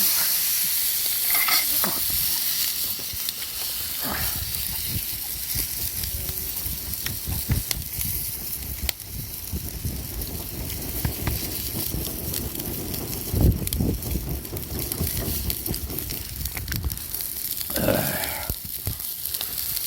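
Bone-in rib roast sizzling as it cooks over a campfire, a steady hiss with small crackles throughout. A single loud knock comes about thirteen seconds in.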